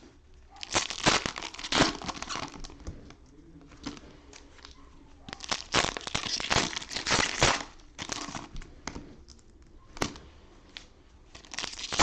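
Cellophane wrappers of trading-card cello packs crinkling and tearing as the packs are opened, in several bursts of rustling with short pauses between.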